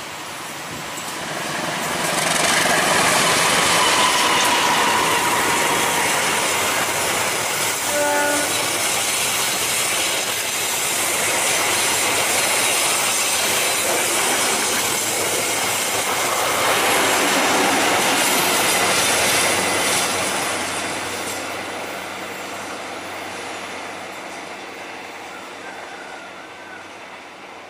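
A passenger train led by a diesel locomotive passes close by on a curve at reduced speed. The engine's rumble gives way to the coaches' wheels clattering over the rail joints, with a thin squeal from the wheels on the curve. It builds over the first two seconds, stays loud for most of the pass, then fades as the train goes away.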